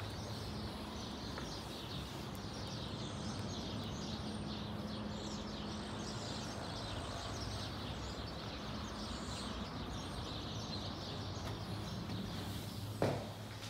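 Outdoor ambience: many small birds chirping over a steady low background hum, with a sharp knock near the end.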